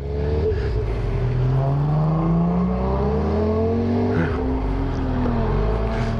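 Motorcycle engine accelerating, its pitch rising steadily for a few seconds. It drops sharply about four seconds in, as at a gear change, and rises again.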